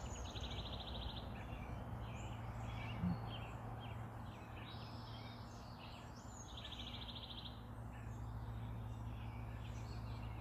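Wild birds singing and chirping outdoors, including a fast high trill heard twice, over a steady low hum. A soft knock comes about three seconds in.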